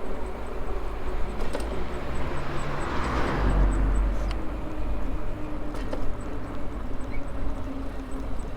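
Riding a Maxtron Mule folding e-bike: wind rumbling on the microphone, with a steady motor hum and a few clicks. A rushing noise swells and fades about three to four seconds in.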